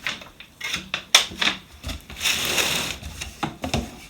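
Irregular knocks, clicks and a stretch of scraping, cardboard and plastic rubbing, as a heavy boxed electric lawnmower is lifted out of its cardboard box.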